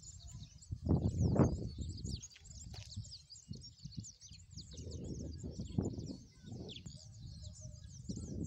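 Many small birds chirping in rapid, high calls, over a low, uneven rumble that is loudest about a second in.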